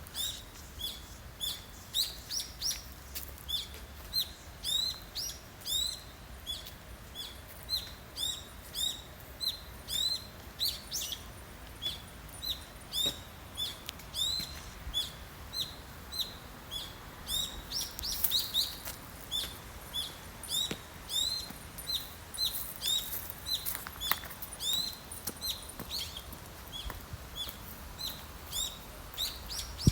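A small songbird giving the same short, high chirp over and over, about one or two a second.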